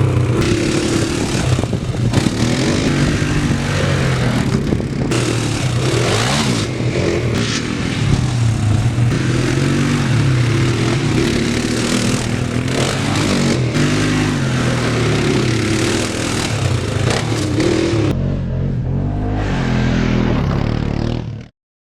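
Off-road motorcycle engine running under changing throttle, its pitch rising and falling as it revs and shifts, with wind rush over the microphone. The sound cuts off suddenly near the end.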